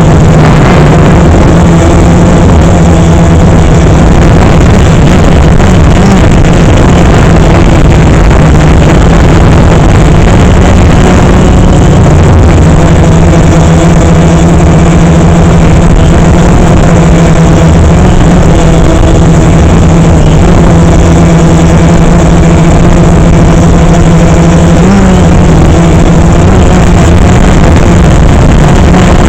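DJI Phantom 3 quadcopter's motors and propellers in flight: a loud, steady buzzing drone with a low hum that wavers slightly in pitch, over a rushing noise.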